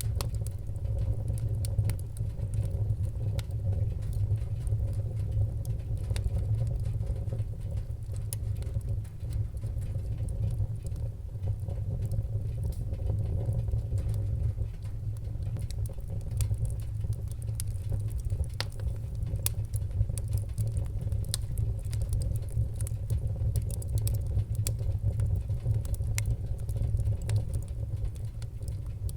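Wood fire burning in a fireplace: a steady low rumble of flames with many small sharp crackles and pops at irregular intervals.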